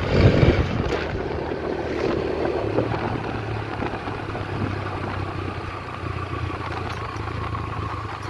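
Yamaha YBR125G motorcycle's single-cylinder engine running steadily while riding, with wind rushing over the microphone.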